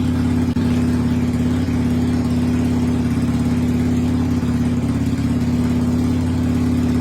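Motorcycle engine idling steadily with an even, unchanging note.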